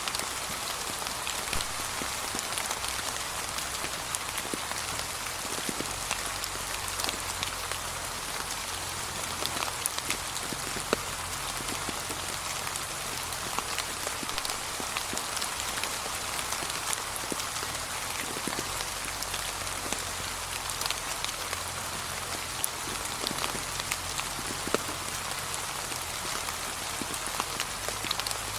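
Steady light rain falling on fallen leaves, an even hiss dotted with the small ticks of single drops.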